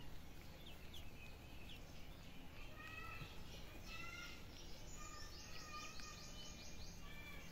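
Outdoor background noise with birds calling: a few short calls from about three seconds in, then a fast high trill between about five and seven seconds.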